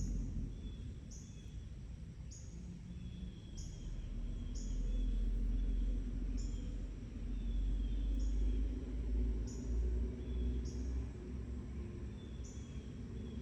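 A bird giving short high chirps, repeated about once a second, over a steady low rumble of outdoor background noise.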